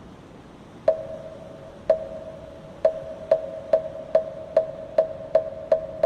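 Moktak, the Buddhist temple wooden fish, being struck: two slow strokes about a second apart, then strokes coming faster and faster, each leaving a ringing tone.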